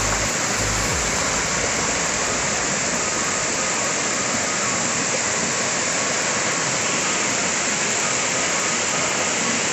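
Steady rushing of flowing water, even and unbroken, with a few low thuds in the first second.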